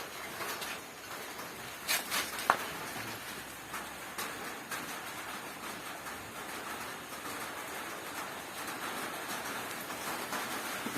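Rain falling steadily, with a few sharp knocks or clinks about two seconds in.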